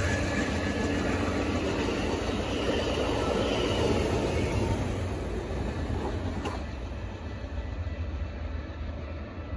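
A train rolling past, its wheels and cars making a steady rumble that slowly fades as it moves away, then cuts off suddenly at the very end.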